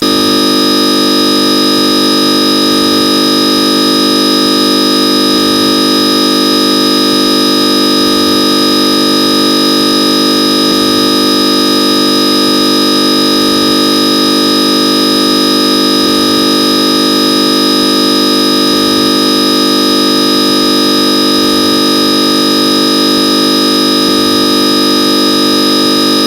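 Loud, unchanging electronic buzzing tone made of many steady pitches at once, starting and cutting off abruptly.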